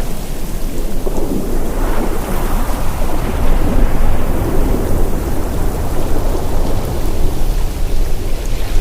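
Ocean waves breaking on a shore: a continuous rushing roar with a deep rumble, swelling louder about four seconds in.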